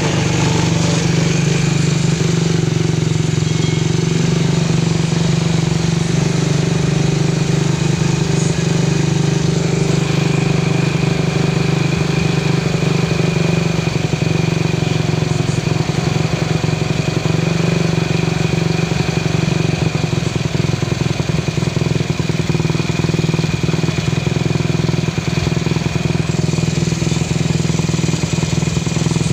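Motorcycle engine idling steadily just after starting, a constant low note with no revving.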